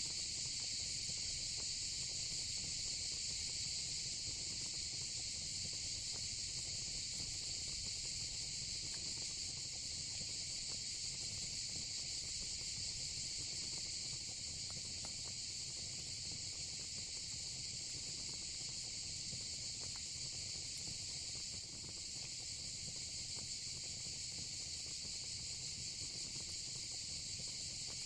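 A steady, high-pitched chorus of insects, with a low rumble of an outdoor fire pit underneath and a few faint crackles.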